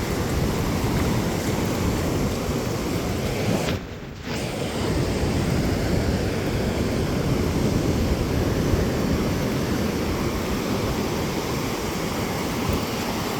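Ocean surf washing with wind buffeting the microphone, a steady noise with a heavy low rumble. The sound dips out briefly about four seconds in.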